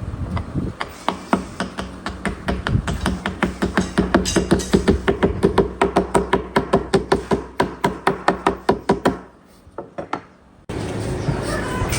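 Hammer rapidly striking wood, an even run of sharp knocks at about five a second that stops about nine seconds in. A steady noise starts near the end.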